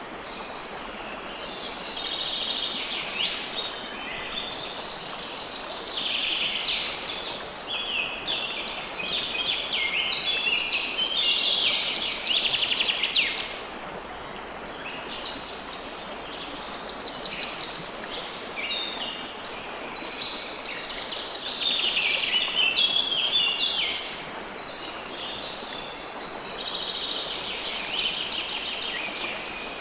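River water flowing steadily, with birds singing and chirping over it in busy phrases of a few seconds.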